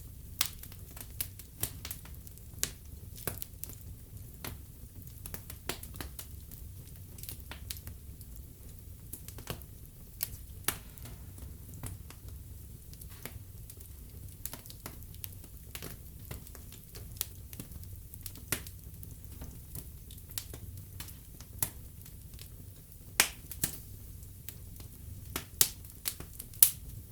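Wood fire burning in a fireplace: irregular sharp crackles and pops over a low steady rumble of the flames, with a cluster of louder pops near the end.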